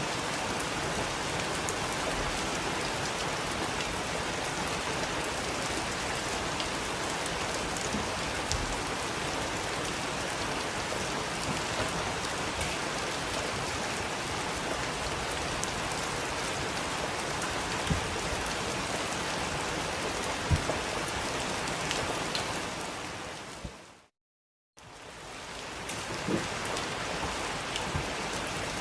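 Heavy rain falling: a steady, dense hiss with scattered drop impacts. About 23 seconds in it fades out to a brief gap of silence, then comes straight back.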